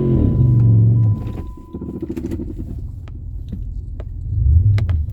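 Jeep Commander engine straining as it pushes through deep snow: the revs fall off just after the start, and the engine settles to a low rumble about a second in. Scattered knocks and clicks run over the rumble, and the engine surges briefly near the end.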